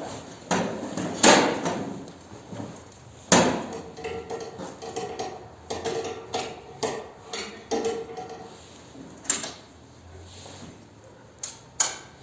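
Irregular knocks and clunks of hard objects being handled, a dozen or so, the loudest about a second in and a few seconds in, with a faint steady hum for a few seconds in the middle.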